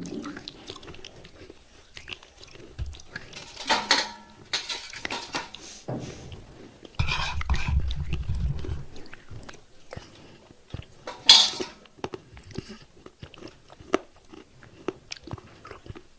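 Thick pieces of broken fired clay pot, coated in paste, being bitten and chewed close to the microphone. Sharp crunches come in several loud bouts, the sharpest about eleven seconds in, with small gritty clicks of chewing in between and a low muffled stretch midway.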